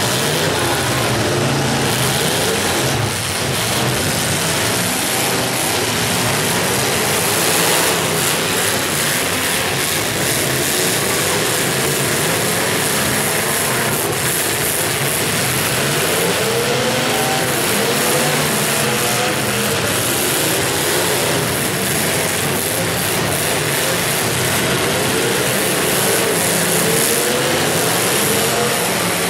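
Several demolition derby cars' engines running loud at once, revving up and down with rising and falling pitch.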